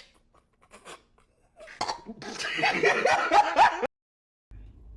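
A woman's loud, laugh-like vocal outburst lasting about two seconds, coming after a few faint clicks.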